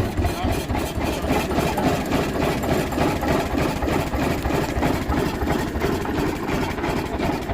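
1922 Rumely OilPull 16-30H two-cylinder kerosene tractor engine idling, with a steady, even beat of firing strokes.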